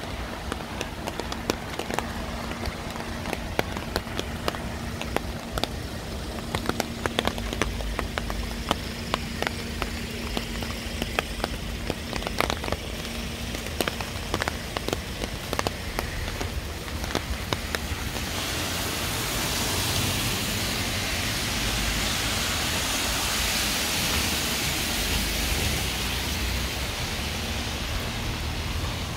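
Heavy downpour on a city street: a steady hiss of rain with many sharp drop impacts close by. About two-thirds of the way through, a louder, brighter, steady rush of rain takes over.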